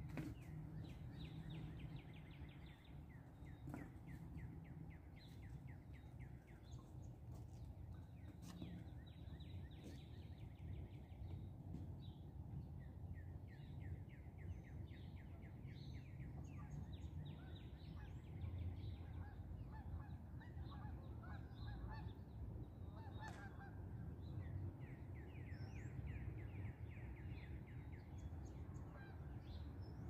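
Wild birds calling and singing, with many quick runs of short repeated notes throughout and some lower honking calls, over a low steady background rumble.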